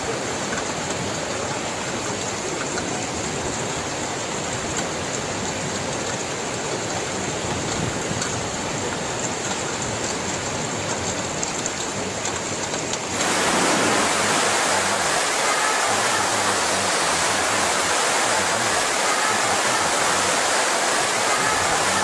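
Floodwater rushing in a steady, heavy wash of noise. About 13 seconds in it changes abruptly to a louder, brighter rush.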